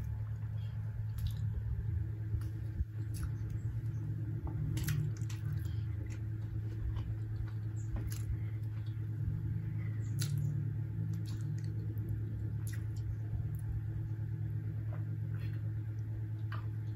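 Close-miked chewing: soft, wet mouth clicks and smacks scattered irregularly, over a steady low hum.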